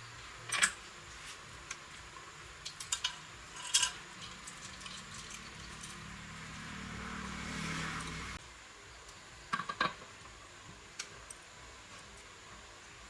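Small metal parts and tools clinking and tapping several times during hand work on a motorbike, with a faint whirr that swells for a few seconds and cuts off suddenly about eight seconds in.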